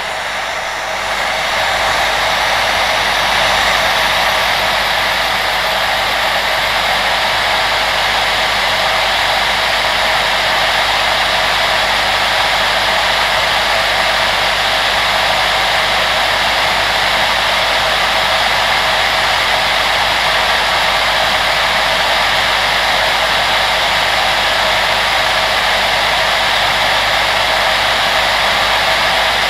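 Electric blower running with a steady rushing noise. It builds over the first couple of seconds, then holds even.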